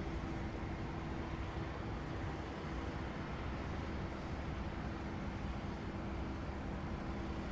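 Steady low rumble of distant engines, with a faint steady hum running through it.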